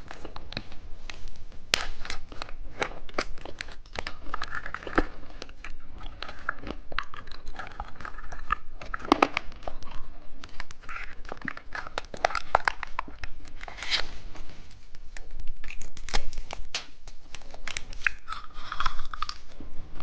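Plastic candy packaging crinkling and tearing as a hamburger-shaped candy is unwrapped by hand, in many short crackles and rustles.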